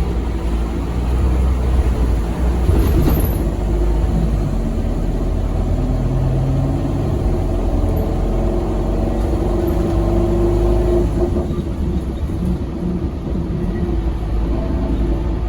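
Scania K270UB6 Omnilink bus's engine running under way with a deep, steady rumble, its note shifting about three-quarters of the way through. There is a brief knock or rattle about three seconds in.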